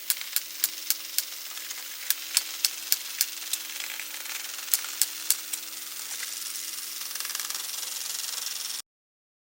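A run of sharp clicks, about four a second, coming in groups over a steady hiss, cut off suddenly near the end.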